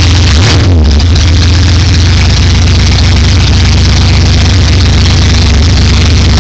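1972 Ford Mustang's carbureted V8, fitted with new headers, idling steadily and loudly.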